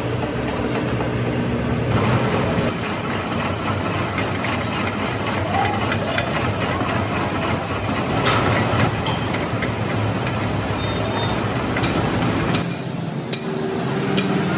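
Steady, loud heavy-vehicle running noise, with a thin high whine for several seconds in the middle and a few sharp metallic clicks near the end.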